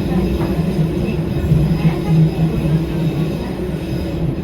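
Eizan Electric Railway 900 series 'Kirara' electric train running, heard from inside the car: a steady low rumble of wheels on rail with an even motor hum.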